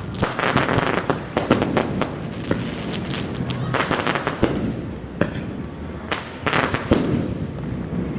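Fireworks going off in a rapid, irregular series of sharp bangs and crackles, many overlapping.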